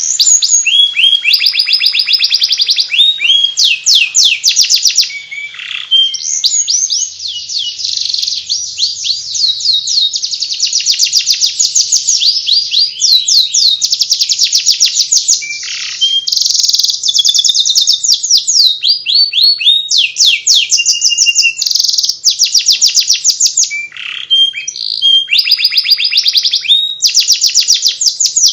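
Domestic canary singing its 'ngeriwik' song: long, fast runs of high repeated chirping notes, trill after trill with only brief breaks.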